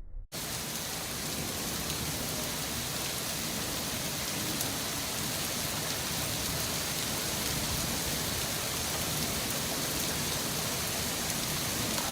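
Steady rain falling in a thunderstorm, an even hiss that starts abruptly a fraction of a second in and holds without a break.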